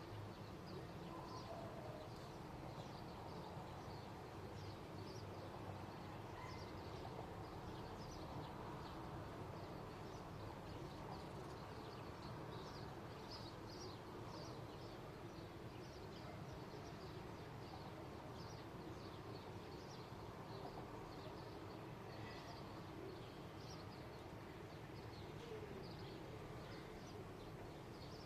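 Birds chirping, many short high chirps in quick succession, over a steady low background hum.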